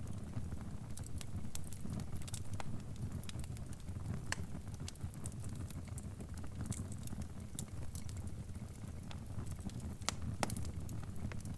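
Fire crackling: irregular sharp pops and snaps over a steady low rumble, with two louder pops, about four seconds in and near the end.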